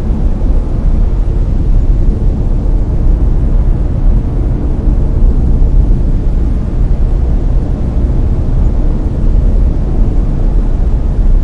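Layered brown noise: a steady, deep rumbling hiss with most of its energy in the bass, unchanging throughout.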